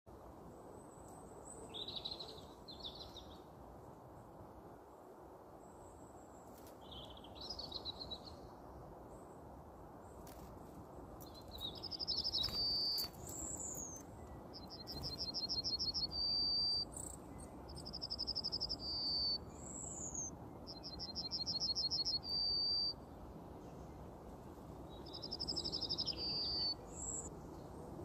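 Songbirds singing. Short chirps come first, then from about halfway through one bird repeats a phrase about five times: a fast, even trill ending in a longer held note. A steady low hiss lies underneath.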